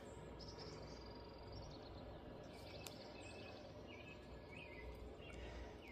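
Faint birdsong: a thin high call in the first couple of seconds, then a few short scattered chirps, over a quiet low background hum.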